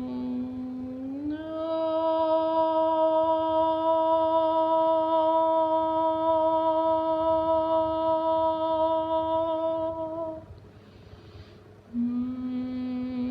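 A person's voice humming long held tones in a sound-healing meditation. A low tone glides up a little about a second in and is held steady for about nine seconds, then stops for an in-breath before a lower hum starts again near the end.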